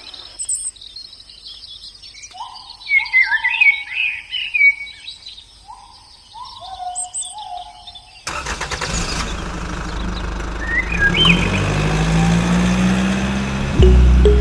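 Birds chirping with short sliding calls. About eight seconds in, a louder steady noise with a low hum cuts in suddenly and takes over.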